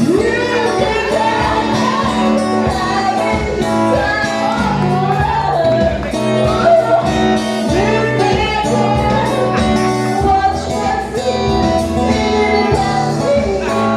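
Band playing a song, a singer's voice carried over guitar and a steady drum beat.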